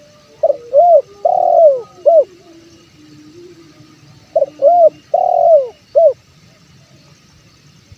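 Spotted dove (tekukur) cooing: two phrases about four seconds apart, each of four notes, a short one, an arched one, a longer drawn-out one and a final short one.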